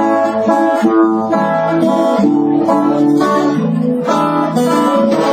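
Acoustic guitar strummed and picked through a chord progression between sung lines of a song.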